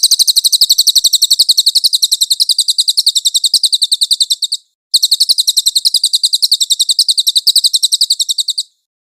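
Recorded songbird trill used as training song: a high, rapid run of evenly repeated chirps, about a dozen a second, in two long bouts with a brief break near the middle, each stopping abruptly.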